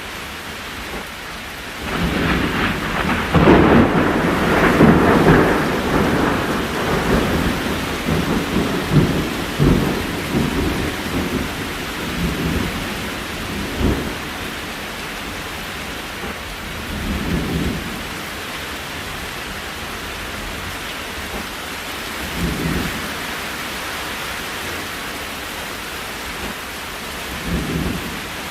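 Steady rain with a long roll of thunder that builds about two seconds in, is loudest a few seconds later and rumbles away over about ten seconds. Three fainter rumbles of thunder follow.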